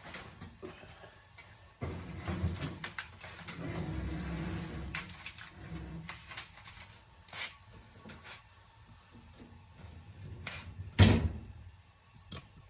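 Scattered clicks and knocks, with a low rumbling stretch from about two to six seconds in and one loud thump about eleven seconds in.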